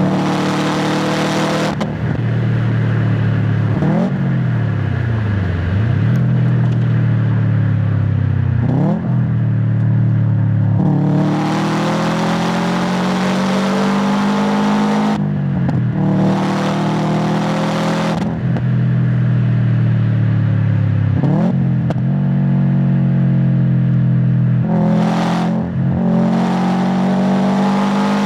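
Exhaust of a 2016 Subaru WRX STI's EJ257 turbocharged boxer four under hard driving, recorded near the tailpipe. The revs climb and drop sharply again and again as it pulls through the gears and lifts off the throttle, with brief quick revs between pulls.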